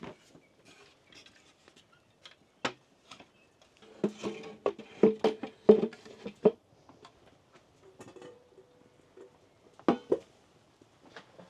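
Plates and dishes being handled and set down: scattered clinks and knocks, with a busier run of clattering about four to six seconds in and one sharp knock near the end.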